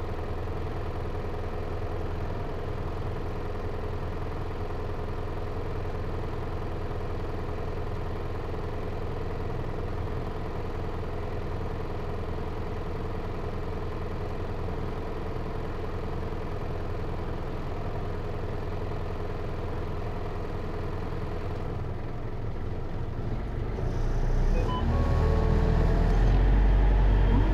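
Hino Liesse RX4JFEA minibus's J05C four-cylinder diesel heard from inside the cabin, running steadily at low revs. About 23 seconds in, the engine gets louder and its note rises as the bus accelerates.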